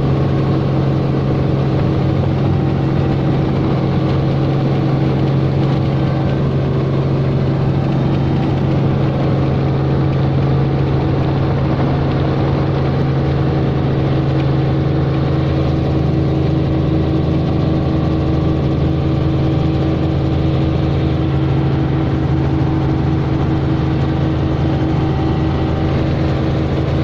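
Helicopter engine and rotor noise, a loud steady drone that does not change.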